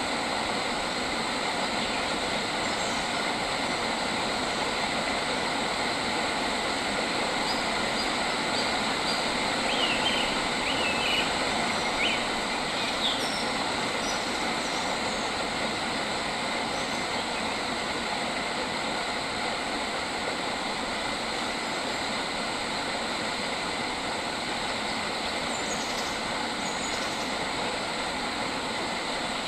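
Steady outdoor nature ambience: an even rushing noise throughout, with a few short bird chirps about ten to thirteen seconds in and again near the end.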